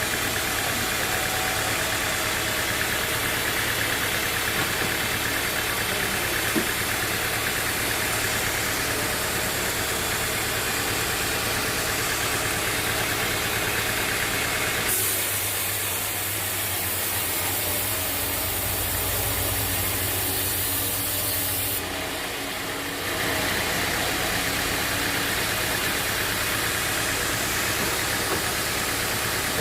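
Band sawmill running steadily, a continuous mechanical engine-and-blade noise. About halfway through, the sound changes character for several seconds, with more high hiss and a different low hum, then returns to the earlier sound.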